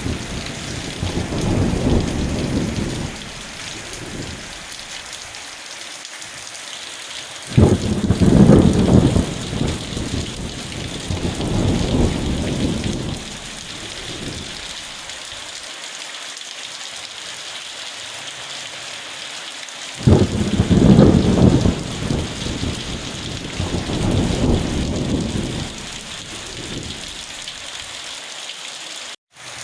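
Steady rain with rolls of thunder: a rumble fading at the start, then new rolls breaking about a quarter of the way in and again about two-thirds through, each dying away over several seconds. The sound cuts out for a moment just before the end.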